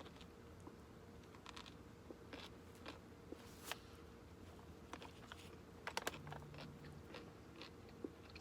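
Close-miked chewing: soft, scattered mouth clicks and light crunches, with a brief low hum about six seconds in.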